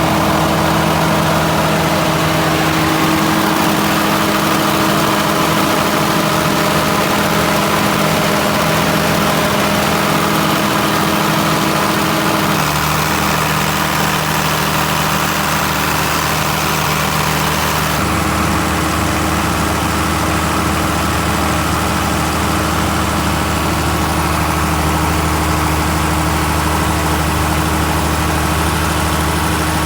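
Mitsubishi 6D16 inline-six diesel engine on a generator, running steadily. Its tone changes abruptly twice, about 13 seconds in and again about 18 seconds in.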